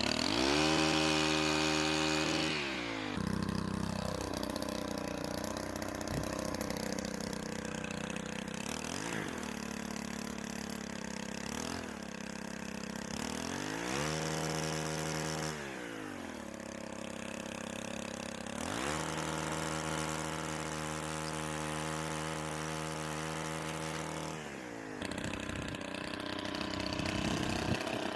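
Petrol pole chainsaw engine revving up to full speed and dropping back to idle several times. There are long full-throttle runs at the start, around 14 s and from about 19 to 25 s, with shorter blips between.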